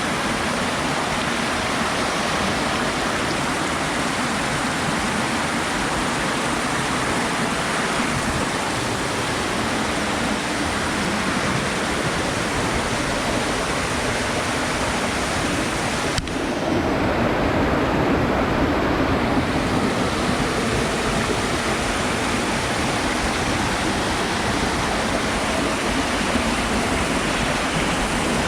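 Steady rushing water with no tones. Just past the middle it changes abruptly: a short click, then the rush goes on slightly louder and deeper.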